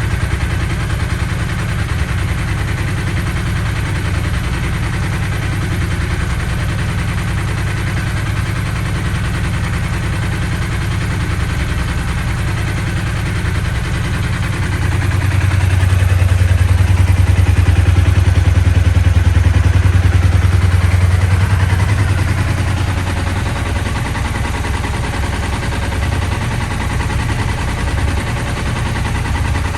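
KTM 890 Rally's parallel-twin engine idling just after a cold start, getting louder for several seconds around the middle before settling back.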